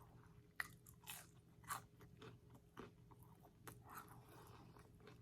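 Faint chewing of McDonald's fast food, with an irregular scatter of soft crunches and wet mouth clicks.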